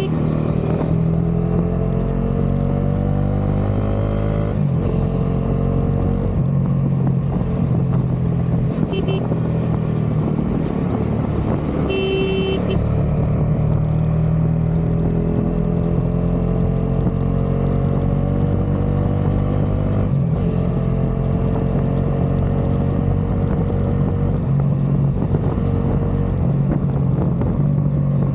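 Bajaj Dominar 400's single-cylinder engine and exhaust under way, its pitch climbing as it accelerates and dropping back at gear changes, about three times.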